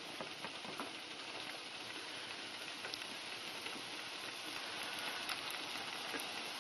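Chopped broccoli sizzling in a skillet: a steady hiss with scattered small pops and ticks.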